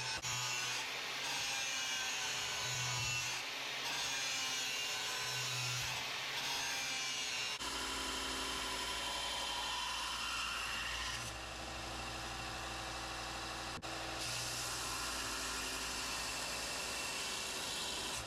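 Power tools working a steel Damascus knife blade, grinding and drilling: a steady whirring, rasping sound. Its character changes abruptly about seven seconds in and again briefly a few seconds later.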